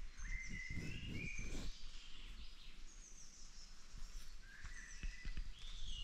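Several wild birds calling and singing in a forest, with short clear whistled notes and high descending chirps scattered throughout. A brief low noise sounds about a second in.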